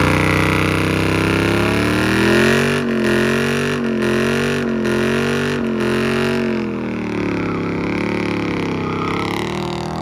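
Car engine held at high revs for several seconds, pitch wavering slightly, with a few brief cut-outs in the first half. It eases off a little past the middle.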